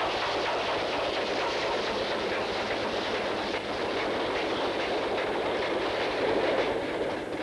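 A steam-hauled freight train of hopper wagons, headed by a Q6 0-8-0 locomotive, passing close by: a steady rumble with faint repeated clicks as the wagons run over the track.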